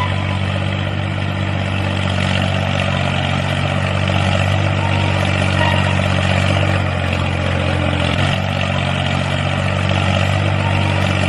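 An engine running steadily, with a brief dip in pitch about eight seconds in.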